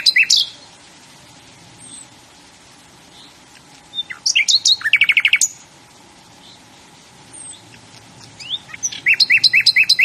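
A songbird singing loud, short songs of rapidly repeated notes, one about every five seconds: the tail of one song at the start, a full song about four seconds in, and another beginning near the end.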